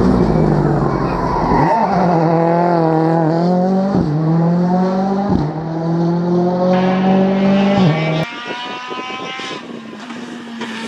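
Rally car engine at high revs, its note broken by quick gear changes, each a short sharp dip, about every one and a half to two seconds. About eight seconds in the sound drops suddenly to a fainter, thinner engine note.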